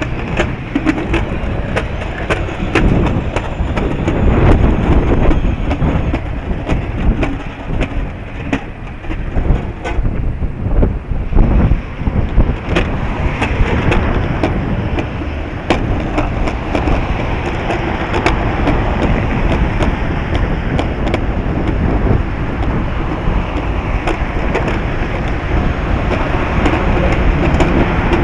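Strong wind buffeting the microphone: a loud, gusting rumble with many sharp rattling clicks throughout.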